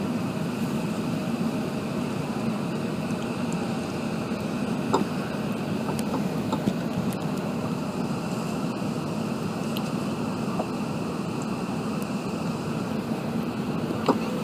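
Steady rushing cabin noise of an Airbus A380 airliner in flight, with a few faint clicks.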